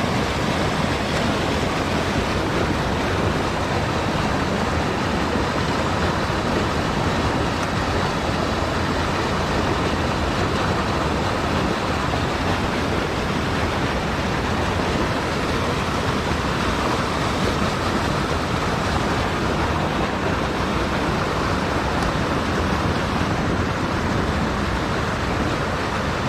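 Steady rush of a flowing mountain stream.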